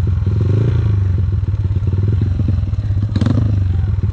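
Dirt bike engine running steadily at low revs, with clattering, and a short louder burst about three seconds in.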